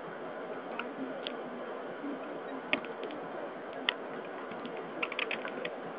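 Inside a car driving in the rain: a steady hiss of road and rain noise, with irregular sharp ticks and clicks, a quick run of them near the end.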